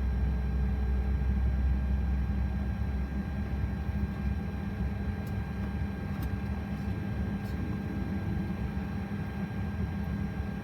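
Boeing 737 jet engines heard from inside the cockpit: engine 2 running while engine 1 turns on its air starter before fuel is introduced. A steady low rumble and hum with several steady whining tones; the rumble eases after about three seconds.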